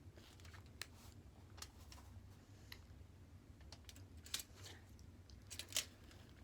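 Faint, scattered clicks and light crinkling from someone eating sashimi, over a low steady room hum. The sharpest clicks come about a second in and near the end.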